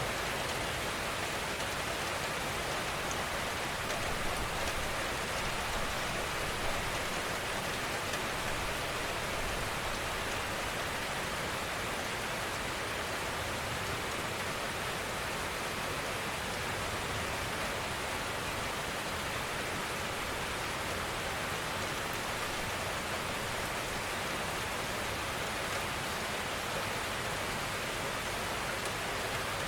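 Steady gentle rainfall, an even hiss of many drops falling on a surface, with a few slightly louder drops in the first several seconds.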